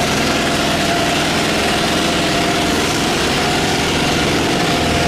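Boat engine running steadily, with a constant pitch and no change in level.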